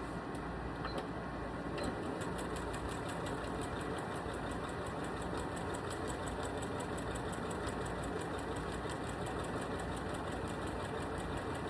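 Domestic sewing machine stitching at a steady, rapid, even rhythm, starting about two seconds in after a couple of clicks.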